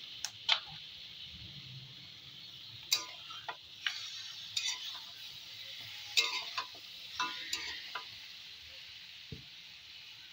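Marinated chicken pieces sizzling in hot mustard oil with chopped onions in a kadai, a steady frying hiss broken by scattered sharp pops and clicks.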